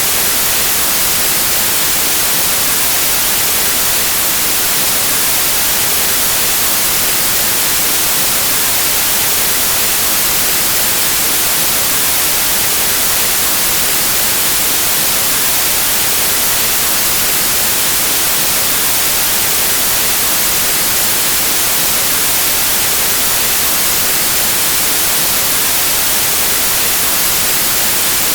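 Synthetic white noise: a loud, steady, even hiss with no change or other sound in it.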